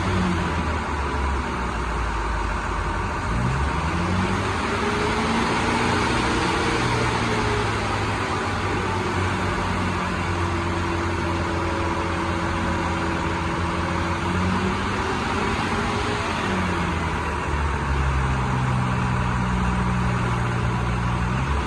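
A vehicle engine running, speeding up about three seconds in, holding a steady higher speed through the middle, then slowing back down near the end.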